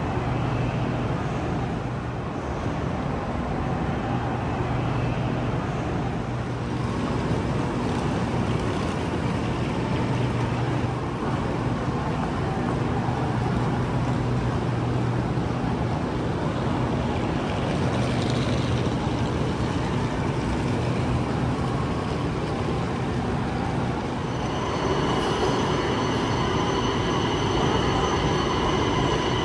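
Station platform beside a stopped Fuxing high-speed electric train: a steady low hum from the train's running equipment under a general station din. About 24 seconds in, several high steady whining tones come in and carry on to the end.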